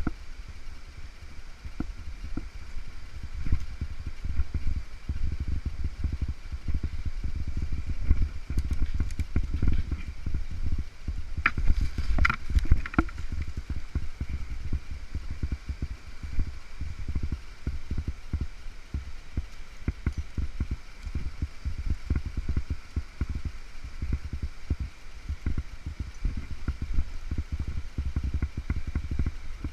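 Irregular low rumbling and thumping on the camera's microphone, with a few brief clicks about twelve seconds in.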